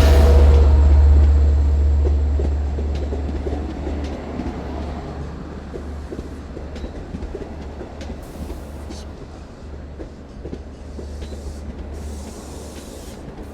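Long Island Rail Road train led by EMD DM30AC diesel locomotives pulling into a station: a loud low locomotive rumble that fades over the first few seconds as the locomotives pass, then the bilevel coaches rolling by with wheels clicking over rail joints as the train slows to a stop.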